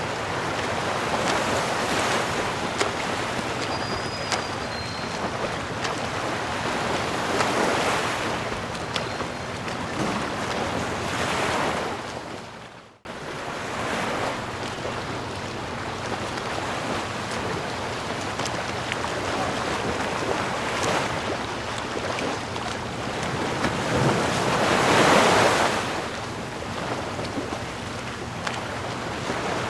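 Sea surf: waves washing in, the hiss swelling and easing every few seconds, with the biggest surge near the end. The sound cuts out abruptly for a moment about thirteen seconds in, then picks up again.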